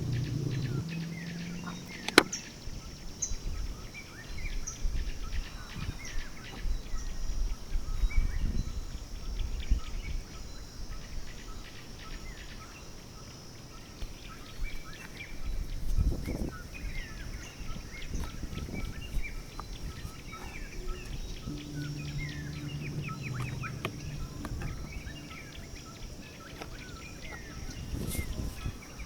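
Small birds chirping repeatedly over steady outdoor ambience, with scattered knocks and a sharp click about two seconds in. A low hum runs for a few seconds past the middle.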